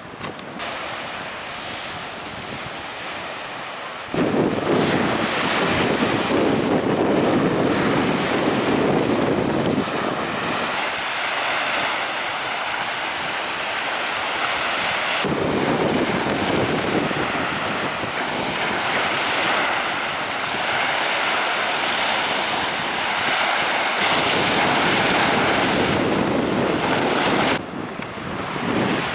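Strong wind rushing over the microphone together with waves and splashing water, changing abruptly in loudness and tone three times.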